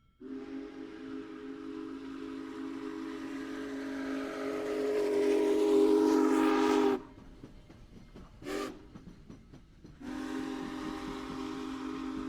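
A train whistle sounding a steady multi-note chord: one long blast that grows louder and cuts off sharply about seven seconds in, a short blast a little later, then another long blast starting near the end.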